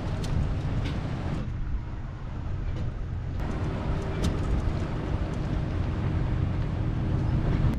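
Strong wind buffeting the microphone, a heavy, steady low rumble, with a few faint clicks.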